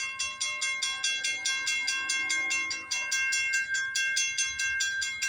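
Railroad grade-crossing warning bell ringing in fast, even strikes, about five a second: the crossing is activated with the gates down for an approaching train.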